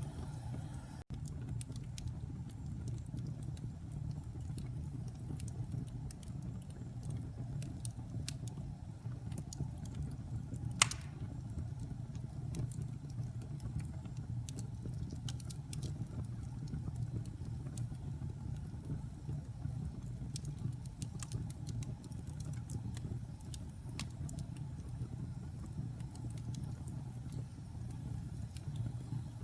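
Wood fire burning in a fireplace: a steady low rumble of flames with scattered crackles, and one louder pop about eleven seconds in.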